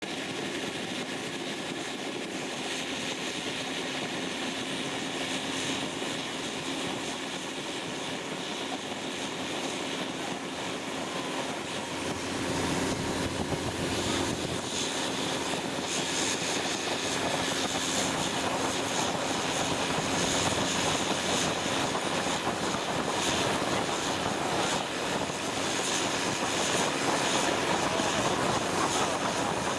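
Long-tail boat engine running steadily at cruising speed, a continuous drone that grows louder and fuller about twelve seconds in.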